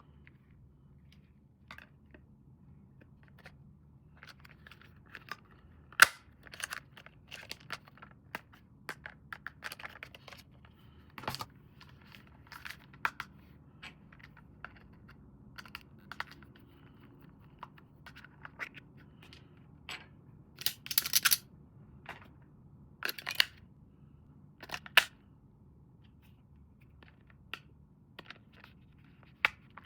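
Scattered clicks, snaps and plastic rustling from hands unpacking and handling a remote-control toy car and its packaging. A sharp snap comes about six seconds in, and a short ripping burst comes around twenty-one seconds.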